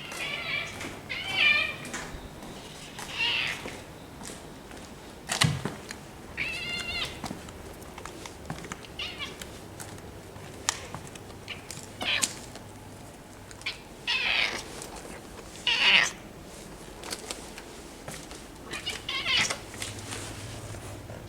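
Community cats yowling at each other in a fight standoff: about eight drawn-out wavering calls with pauses between them, the loudest near the start and about sixteen seconds in. A single sharp knock about five seconds in.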